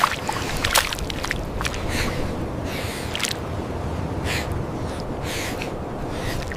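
An animal's gasping, snorting breaths, short rough bursts coming about once or twice a second at uneven spacing, over a steady low rumble.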